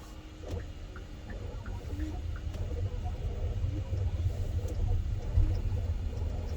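Low road and tyre rumble heard inside the cabin of a Hyundai Ioniq 5 electric car as it pulls away, growing louder as it picks up speed, with a few faint ticks.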